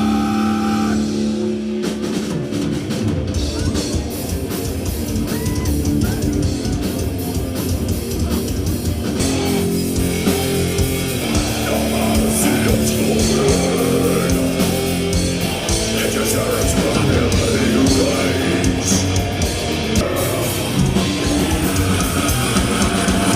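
Heavy metal band playing live: distorted electric guitars over a drum kit. The full band comes in about two seconds in.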